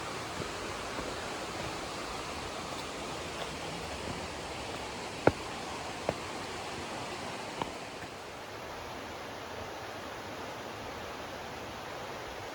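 Steady rush of river water. Three sharp clicks about five, six and seven and a half seconds in, the first the loudest.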